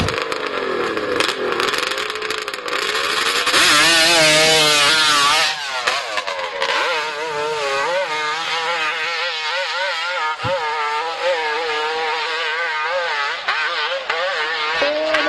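Hill-climb motorcycle engine revving hard, its pitch rising and falling quickly over and over as the throttle is worked. A louder rush of noise lasts about two seconds, a little under halfway through.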